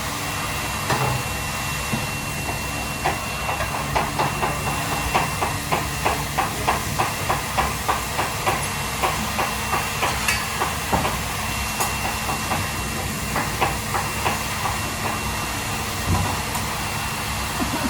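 A steady hiss from the kitchen, with a run of short, even knocks about three a second, which grow sparse after the middle.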